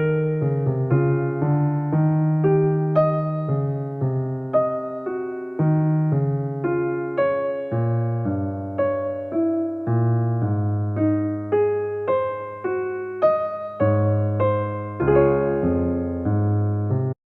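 Background music: a piano or electric piano playing a steady flow of melody notes over sustained bass notes, ending abruptly at the very end.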